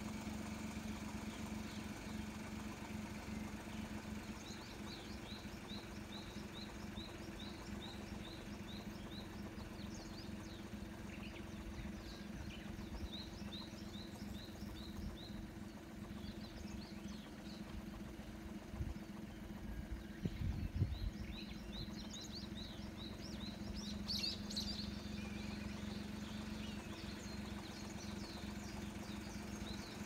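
Small birds chirping in runs of quick repeated notes, over a steady low hum of a distant engine or machine. A brief low rumble comes a little past the middle.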